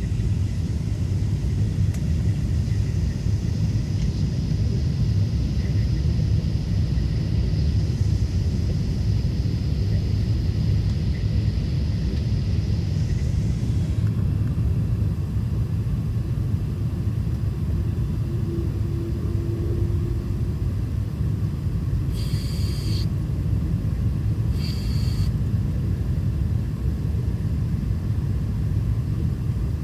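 Steady low rumble of a Boeing 777 heard from inside the cabin in flight, engines and airflow, with two brief higher-pitched sounds about two-thirds of the way through.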